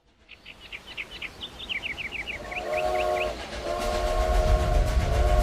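Train sound effects opening a recorded song: a train whistle sounds twice, each a held chord, over a rumble and rhythmic clatter of rolling wheels that grows louder. A run of short high chirps plays for the first few seconds.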